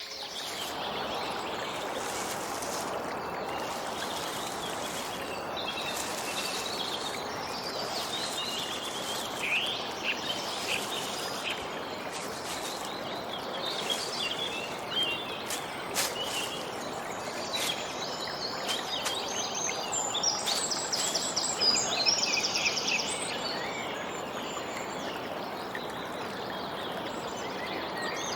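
Outdoor nature ambience: a steady rushing hiss with small birds chirping and twittering over it, the calls growing busier and faster in the second half, and a few scattered sharp clicks.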